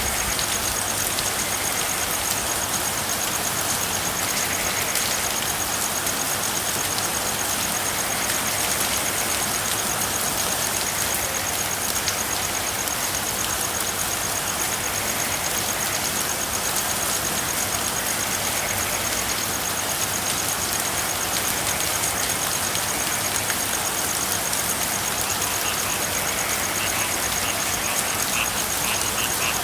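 Steady rain falling, with a fast high-pitched pulsing trill running through it. Near the end, frogs start calling in short repeated croaks.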